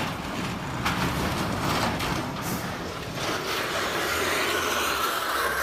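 Vehicle noise with several sharp knocks in the first half and a rising rush of noise near the end.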